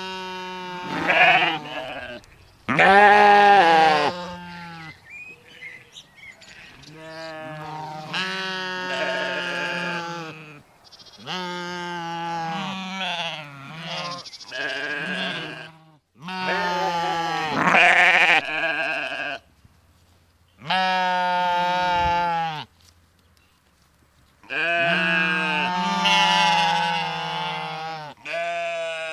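Sheep bleating: a series of about ten separate bleats, each one to three seconds long with a wavering pitch, with short pauses between them.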